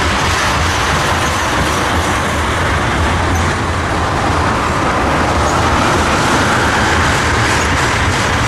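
Loaded oil train's tank cars rolling past close by: steady rumble and clatter of steel wheels on the rails. A faint squeal comes in near the end.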